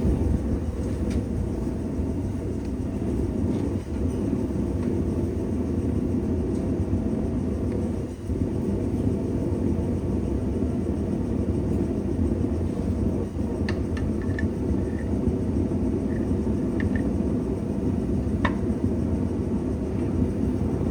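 Blacksmith's forge running with a steady low rumble, with a few faint light taps in the second half.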